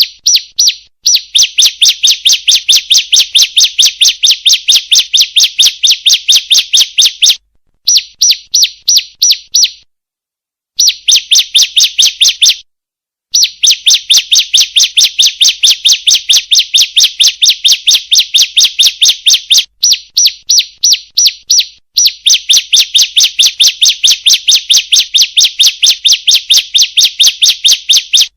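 Female bar-winged prinia (ciblek) calling: a fast, even series of sharp high chirps, about four a second, in long runs broken by a few short pauses. It is a lure-call recording used to prompt caged ciblek to sing.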